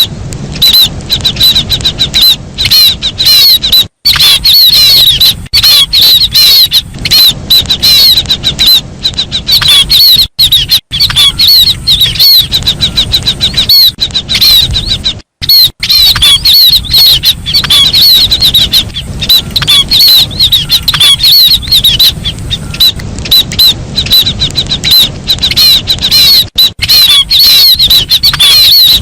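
Loud, dense twittering of the chim ri (cu lý) bird, many rapid high chirps and trills overlapping continuously with a few brief breaks, a call recording meant for luring the bird.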